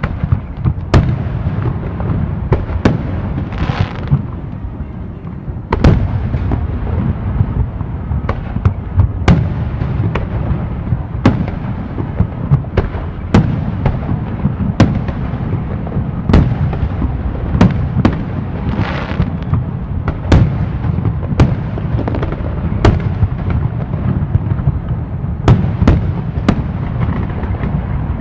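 Fireworks display: a rapid series of sharp bangs from bursting shells over a continuous low rumble, with a hissing burst about four seconds in and again about nineteen seconds in.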